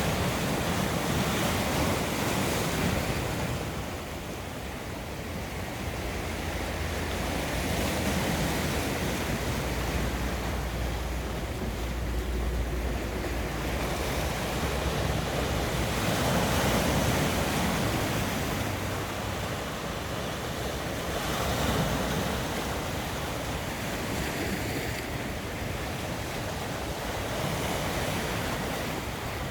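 Rough Black Sea surf: waves breaking on the shore, the rush of noise swelling and easing every few seconds.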